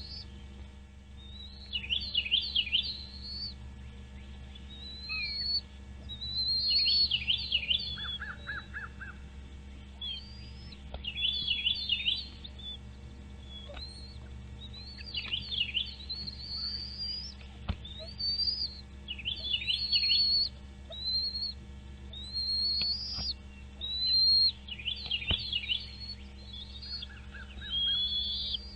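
Birds calling: repeated bursts of high chirps and short rising whistles every second or two, over a steady low hum.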